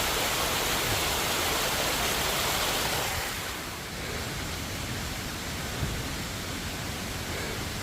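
Rushing water of a cascading waterfall, a steady roar of falling water that drops to a softer, duller rush about three seconds in.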